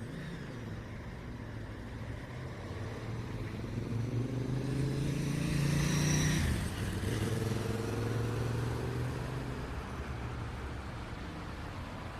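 A motor vehicle drives past on a city street over steady traffic hum. Its engine grows louder up to about six seconds in, then drops in pitch and fades as it passes.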